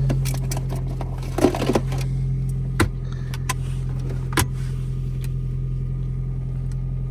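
Toyota Prius running just after a cold start, a steady low hum, with a quick cluster of clicks and rattles about a second and a half in and single sharp knocks twice after that.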